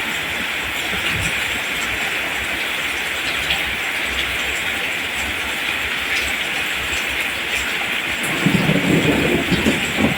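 Steady rain falling, an even hiss without a break. About eight seconds in, a low rumble swells up beneath it.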